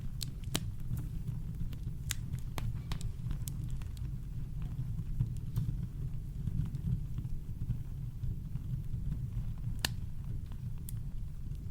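Campfire crackling: scattered sharp pops and snaps, a few close together near the start and a loud one near the end, over a steady low rumble of brown noise.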